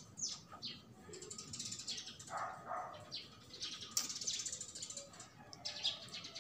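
Birds chirping in short, quick downward-sweeping notes.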